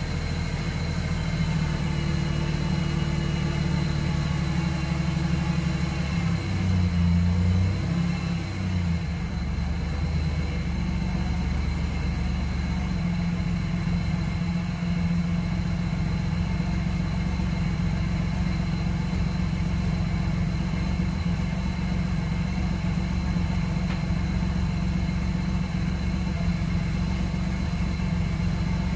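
Fourth-generation Chevrolet Camaro engine idling through a quad-tip exhaust, the car just started after sitting for three months. The idle note wavers briefly about seven seconds in, then settles into a steady run.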